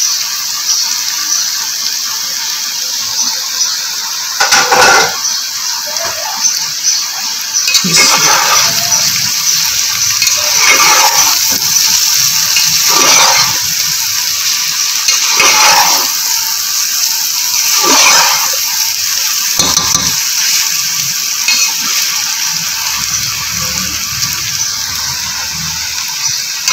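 Stuffed bitter gourds and fried onion masala sizzling in a pot, with a slotted spatula scraping through them about every two to three seconds as they are stirred in.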